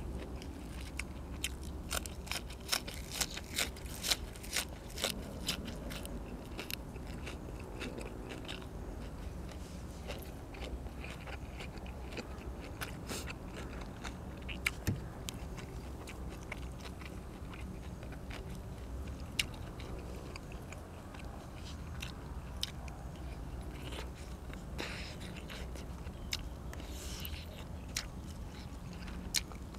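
A person chewing and biting food up close, with crisp crunches and wet mouth clicks. The clicks come thick and fast in the first several seconds, then more sparsely.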